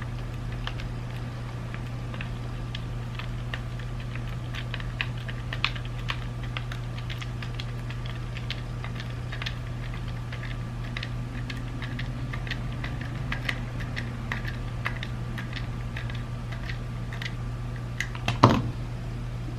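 Many light, irregular plastic clicks and taps as the parts of a BMW iDrive controller are handled and fitted together during reassembly, with one louder click near the end, over a steady low hum.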